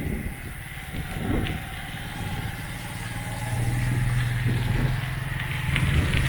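Road traffic: a motor vehicle's engine running nearby, its low steady hum growing louder about halfway through.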